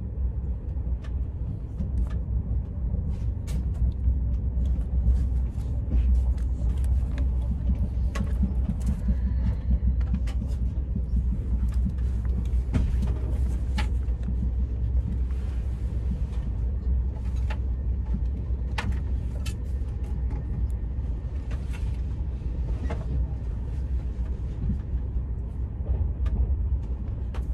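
Steady low rumble of a passenger train's cabin while the train is running, with scattered small clicks and light paper handling from a pen and a word-search booklet.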